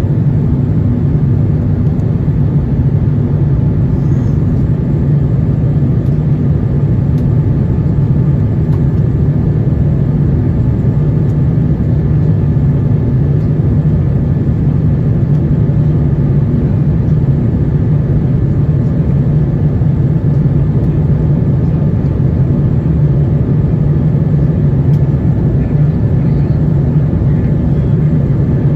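Steady, loud cabin rumble of an Airbus A350-900 in motion, heard from inside the cabin: the low drone of its Rolls-Royce Trent XWB engines and airflow, unchanging throughout.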